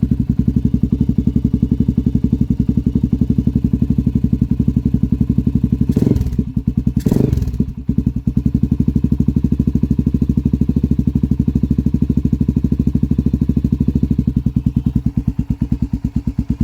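Honda 400EX ATV's single-cylinder four-stroke engine idling fast and even on a cold start with the choke on. The running falters briefly with a couple of sharp knocks about six to seven seconds in, then settles back into a steady idle.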